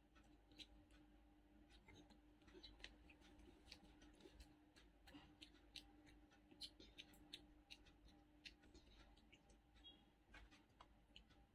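Faint eating sounds: a child chewing fried popcorn chicken and handling the pieces, heard as soft, irregular clicks and crunches over a low steady hum.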